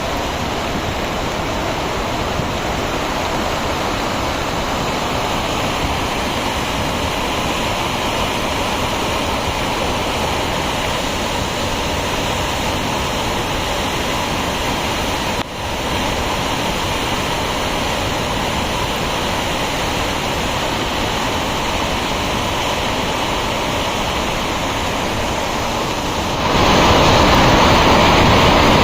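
Flooded mountain stream (nallah) in spate: a steady, loud rush of fast floodwater. There is a momentary break about halfway through, and the rush gets louder near the end.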